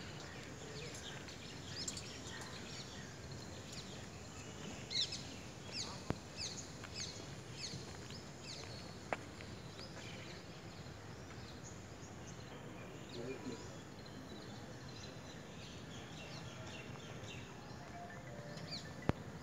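Birds chirping in quick, short falling calls over steady open-air background noise, busiest a few seconds in, with a few sharp clicks along the way.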